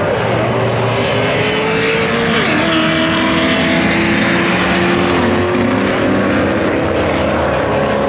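Loud, steady engine noise from a car, its pitch dropping sharply a few times and creeping back up in between.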